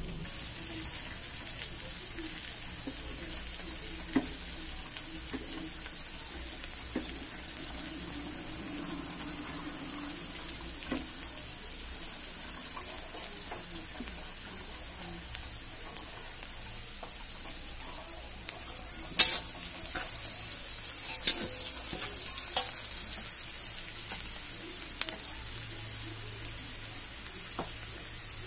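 Chopped onion and garlic sizzling in a steel wok, stirred with a metal spatula that clicks and scrapes against the pan now and then. There is one sharp clack about two-thirds of the way through, and the sizzle is louder for a few seconds after it.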